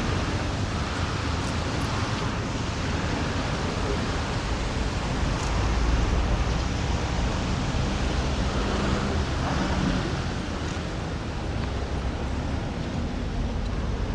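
Steady outdoor background noise with a low rumble that swells about six seconds in.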